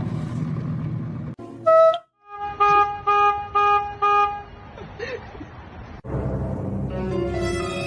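A horn tooting four short times in quick succession, about two a second, after one shorter higher note. Background music plays around it.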